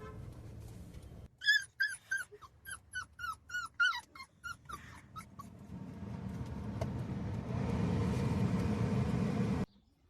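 A puppy giving a run of short, high-pitched whimpering yips, each falling in pitch, about three a second, for some four seconds. Then a steady rushing noise builds and cuts off suddenly near the end.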